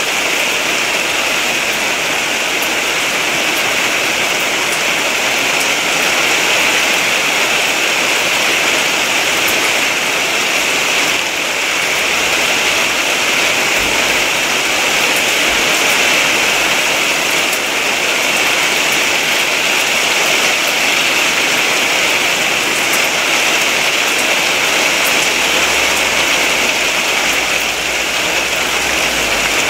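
Torrential rain pouring down steadily: a loud, even hiss with faint scattered ticks of drops.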